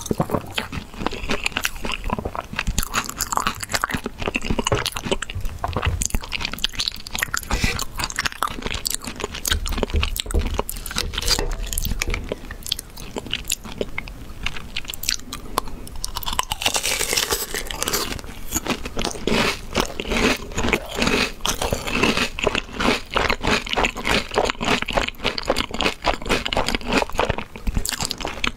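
A person biting and chewing crunchy food close to the microphone: a dense run of small crunches throughout, getting brighter and busier a little past halfway.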